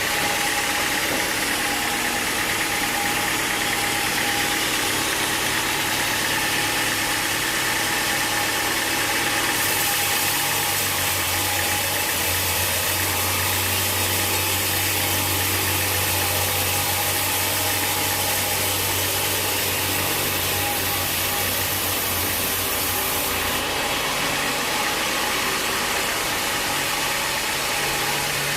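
Sawmill machinery engine running steadily. For about thirteen seconds in the middle a deeper tone and a high hiss join it.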